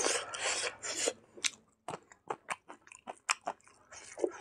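Close-up chewing of a mouthful of cooked silkworm larvae and rice, with many short wet clicks and crunches, as fingers pick through the food on the plate.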